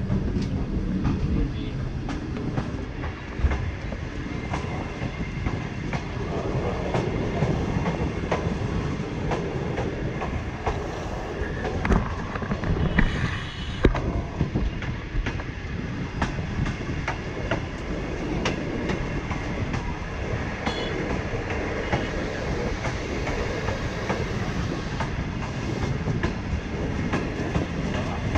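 Passenger train running along the line: a steady rumble with wheels clicking over the rail joints, and a few louder knocks.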